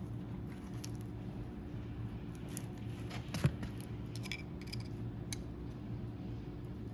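Light clicks and scrapes of hand tools and metal parts being handled while a seal is worked into place on a hydraulic cylinder piston, with one sharper knock about three and a half seconds in. A steady low hum runs underneath.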